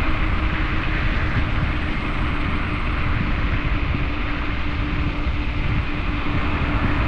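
Wind rushing over the microphone and road rumble from a Fighter Supreme Ultra electric scooter riding at speed, with a steady hum.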